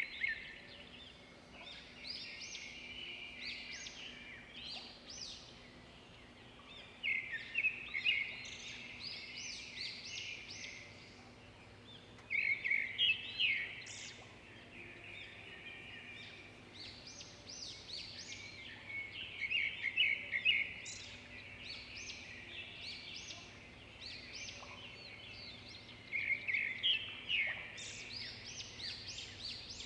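Birds singing: a loud, rapid trill comes back every six or seven seconds, each followed by a scatter of higher chirps, over a faint steady hum.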